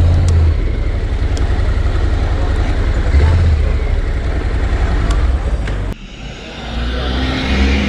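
Motorcycle engine running with road and wind noise while riding through town traffic; the sound drops away sharply about six seconds in.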